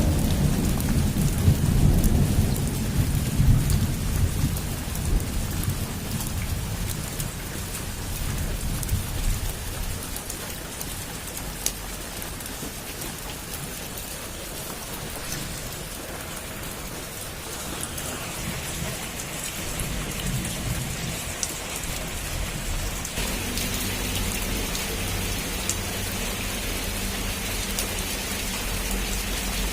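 Heavy rain falling steadily on a roof. A low roll of thunder rumbles at the start and dies away over the first several seconds.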